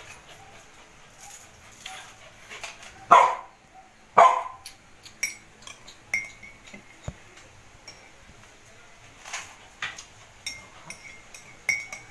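A dog barks twice, about a second apart, three to four seconds in. Around the barks, a spoon and fork clink and tap against a ceramic cup and glass bowls.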